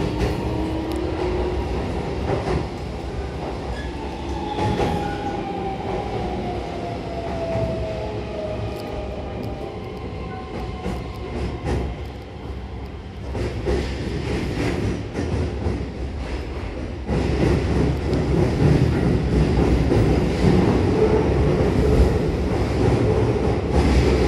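Keihan main-line electric train running in the underground section, heard from inside the passenger car. In the first ten seconds the traction motor whine glides in pitch over a steady low rumble of wheels on rail. The rumble and clatter grow louder from about 17 seconds in.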